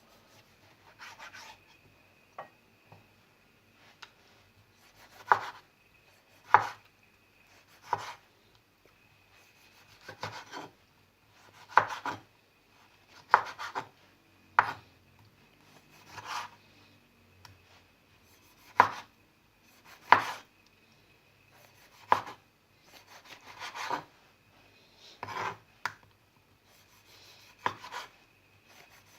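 Knife slicing food on a cutting board. About a dozen and a half separate strokes come at a slow, even pace, roughly one every second and a half, each a short scrape ending in a knock on the board.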